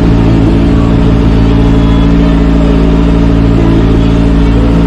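Tractor engine running at a steady speed, a continuous even drone.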